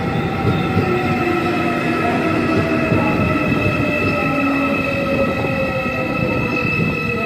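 Line 1 electric multiple-unit train pulling into a station: running gear rumbling, with a motor whine falling slowly in pitch as the train slows and steady high-pitched wheel squeal.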